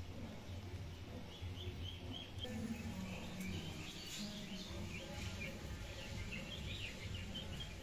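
Small birds chirping in quick, high twitters from about a second and a half in, over a steady low hum.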